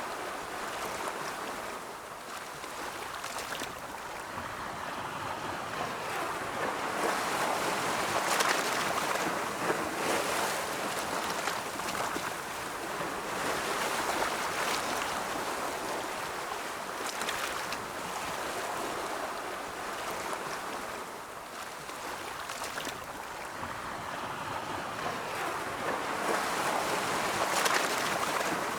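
Ocean surf: waves rolling in and washing out, a continuous hiss that swells and eases in slow surges.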